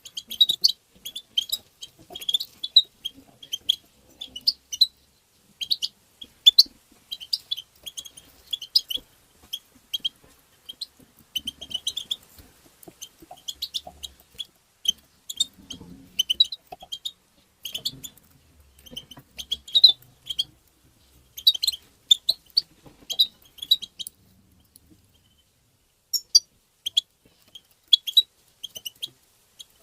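European goldfinch calling: rapid, short, high chattering calls in quick succession, with a brief pause near the end.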